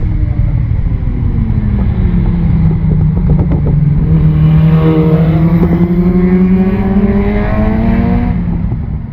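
KTM 690 SMC R's single-cylinder engine running under way, its note easing down over the first few seconds, holding steady, then climbing slowly before falling away near the end.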